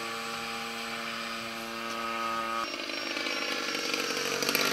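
Gasoline engine of a large RC Super Cub model plane running in flight with a steady droning note. About two and a half seconds in the note changes abruptly, then grows gradually louder.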